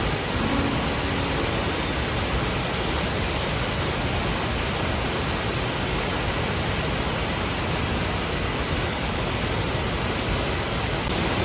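Steady, even rushing of falling water, with no breaks or changes.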